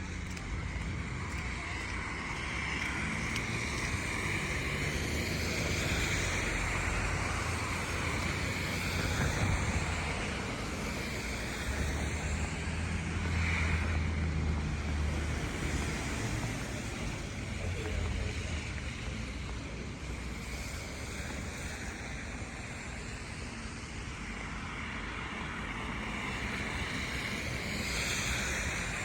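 City street ambience in a snowstorm: a steady hiss of wind and passing traffic, with a vehicle's low rumble swelling and fading near the middle.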